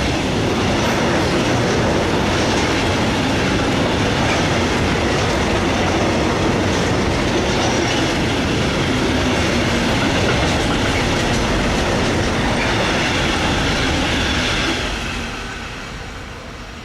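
Freight train passing close by, a steady loud rolling noise of wheels on the rails that drops away about fifteen seconds in as the end of the train goes past.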